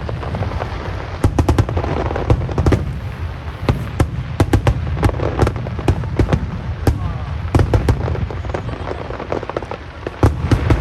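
Aerial fireworks bursting overhead: sharp cracks and bangs in quick, irregular succession, several a second, over a continuous low rumble of shells going off.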